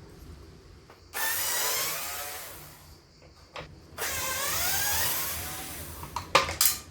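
Cordless power screwdriver running in two bursts of about two seconds each, backing out shroud screws, followed by a few sharp clicks near the end.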